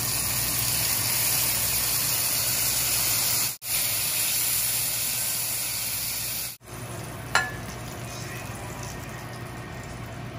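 Asparagus frying in butter in a nonstick pan, a steady sizzle as soy sauce is poured in. The sound breaks off abruptly twice, about three and a half and about six and a half seconds in. After the second break it is much quieter, with one sharp knock about a second later.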